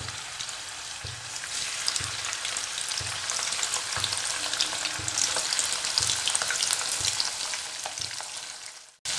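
Salt-and-turmeric-coated prawns frying in hot mustard oil in a kadai: a steady sizzle with fine crackling spatters, growing a little louder in the first few seconds as more prawns go in, then fading out near the end.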